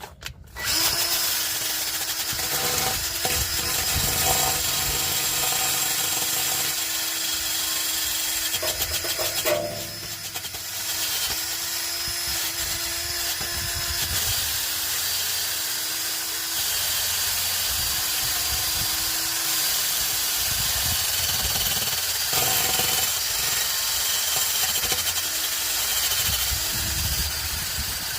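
Handheld power tool running steadily with a hissing, scouring sound, cleaning rust off an exhaust pipe to prepare it for welding. It eases off briefly about ten seconds in.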